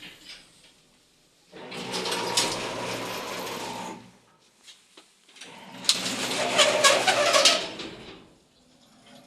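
Sliding doors of a 1988 MLZ passenger elevator moving with a harsh creaking and scraping, twice, each run lasting about two and a half seconds with a short pause between.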